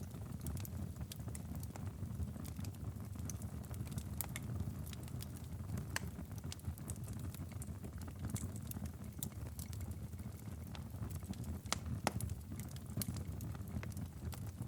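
Wood fire in a fireplace crackling and popping over a low, steady rumble. Sharp pops come at irregular moments, the loudest about twelve seconds in.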